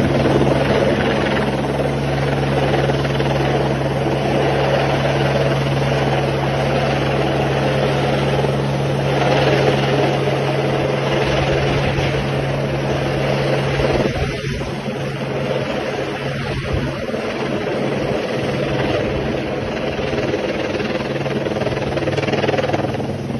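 Helicopter in flight: a steady loud rotor and engine drone with a constant low hum, slightly quieter after about 14 seconds.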